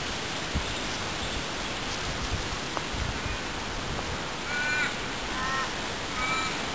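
A bird gives three short calls, about a second apart, in the latter half, each dipping slightly in pitch at its end. They sound over a steady background hiss.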